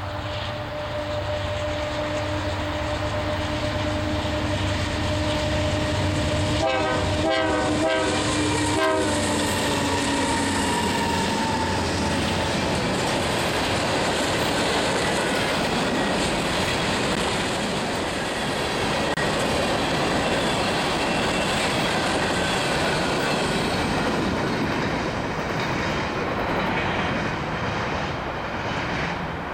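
A loaded BNSF grain train led by GE C44-9W diesel locomotives sounds its horn as it approaches, with short blasts about 7 to 9 seconds in. The horn's pitch drops as the locomotives pass, then the loaded grain hopper cars roll by with a steady clickety-clack.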